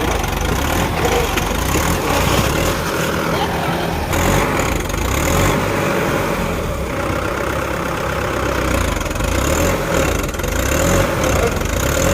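Tractor diesel engine running steadily, its low-pitched note continuing throughout without stopping.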